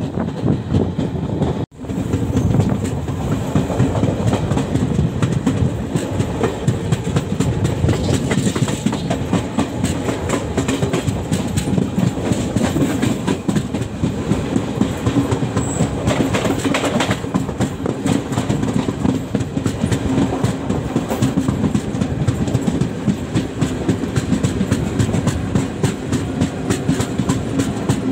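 Passenger train coach running at speed, heard from on board: steady rumble of the running gear with the wheels clattering rhythmically over the rail joints. The sound drops out for an instant a little under two seconds in.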